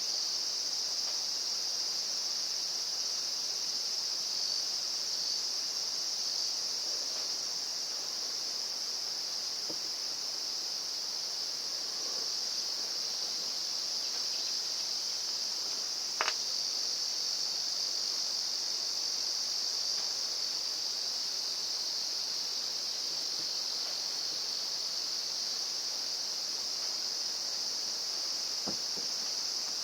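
Steady high-pitched chorus of insects chirring, with one sharp click about sixteen seconds in and a few faint ticks near the end.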